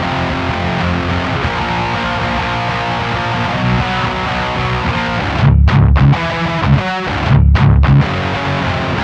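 Distorted electric guitar, an eight-string Ibanez RG8 with EMG pickups, played through a Diezel VH4 tube amp on its high-gain channel, with an RCA black 12AX7 preamp tube and GT-E34LS power tubes. Sustained chords ring for the first half, then give way to short, heavy muted chugs separated by brief gaps. The shop judges this tube pairing's tone a little weak in the bass and slightly blurred.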